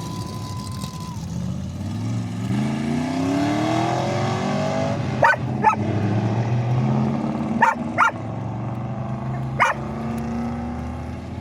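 Engines of old cars in a parade running as they pass, one rising in pitch as it speeds up a couple of seconds in. A dog barks five times over the engines, mostly in pairs.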